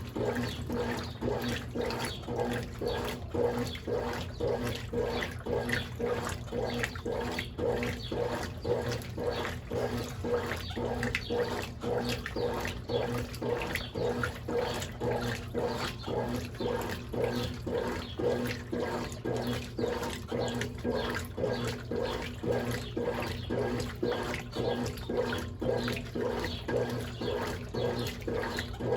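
Brastemp Ative 11 kg top-loading washing machine agitating a load of bed and bath linens: water sloshing back and forth in a quick, regular rhythm over a steady motor hum.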